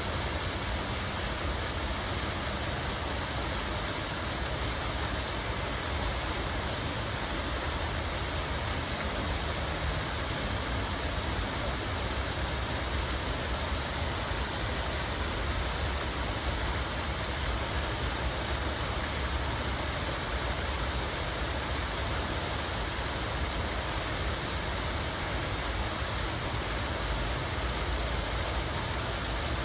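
Steady rush of running water, an even unbroken wash of noise with a low rumble underneath.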